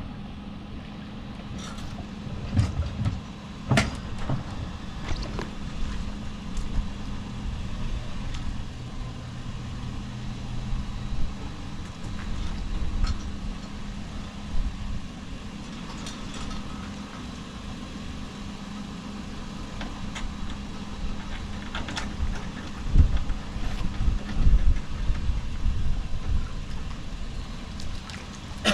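A four-wheel-drive's engine idling steadily, with scattered knocks and clunks and a run of louder thumps near the end.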